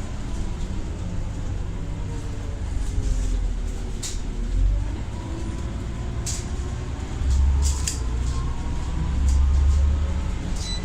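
Scania Omnicity bus running under way: a low engine rumble that swells a few times, with a faint whine from its ZF automatic gearbox slowly rising and falling in pitch, and a few light rattles.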